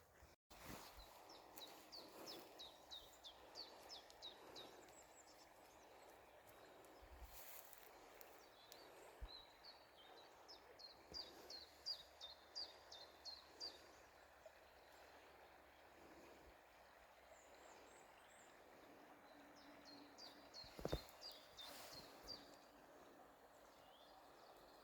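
Faint songbird song in quiet morning woodland: a run of short, high, falling notes, each run lasting about three seconds and given three times, over near-silent ambience.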